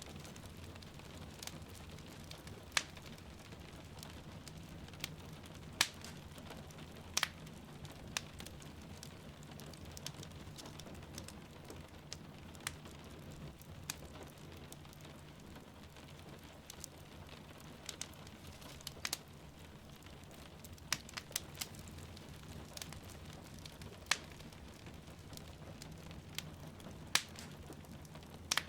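Wood fire crackling in a fireplace, with irregular sharp pops and snaps over a steady low rumble, mixed with a steady hiss of rain falling.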